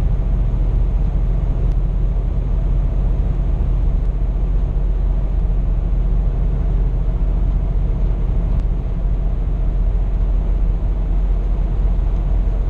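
Scania P420 truck heard from inside the cab while cruising at about 82 km/h: a steady, loud low drone of engine and road noise.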